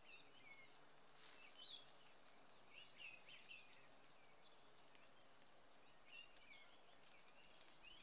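Faint small-bird chirps and twitters in short clusters over a steady hiss; no thunder is heard.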